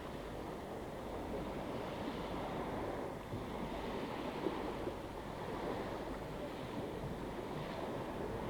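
Steady wash of small waves and wind, with no distinct events.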